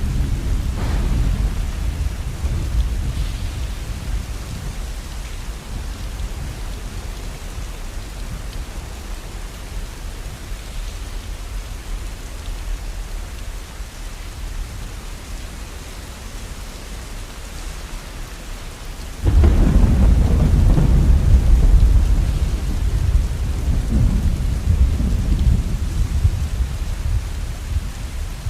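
Steady rain with rolling thunder. A low rumble fades over the first few seconds, then a sudden loud peal of thunder breaks about two-thirds of the way through and rumbles on for several seconds, followed by weaker rolls.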